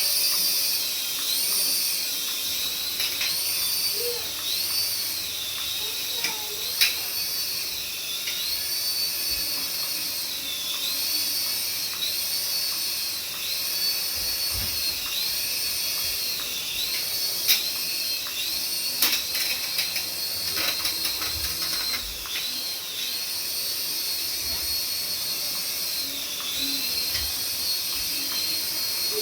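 High-pitched whine of a small electric motor in a remote-control toy, its pitch wavering up and down about once a second, with a few light clicks and knocks.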